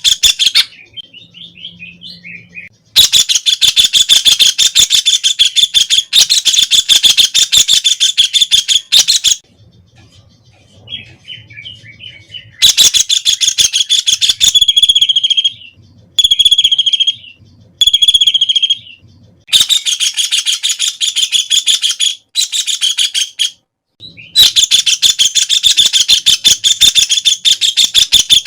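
White-throated kingfisher (Halcyon smyrnensis) calling in loud, rapid trills. The trills come in runs several seconds long, broken by short pauses, with a few shorter phrases near the middle.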